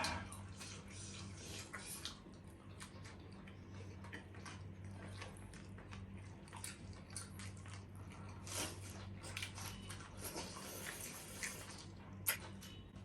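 Close-up eating sounds: chewing and biting with many small scattered clicks, over a steady low hum.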